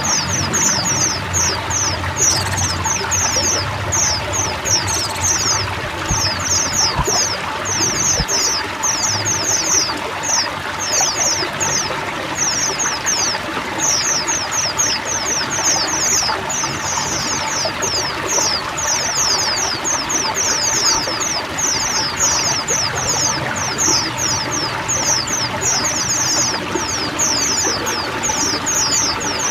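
A chorus of many white-eyes (pleci) chirping and twittering together in a dense, unbroken stream of short high falling notes, over a steady rush of running water.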